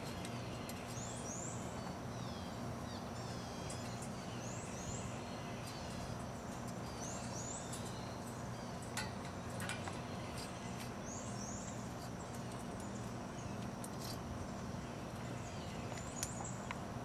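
Wild birds calling in the background: short, high chirps repeating every couple of seconds over a steady low hum, with a few faint clicks about nine seconds in and again near the end.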